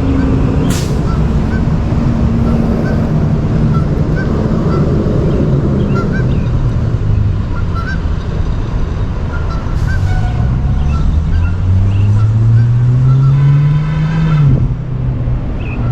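An engine running steadily, its pitch climbing for several seconds from about the middle and dropping away sharply near the end, with short faint bird calls scattered over it.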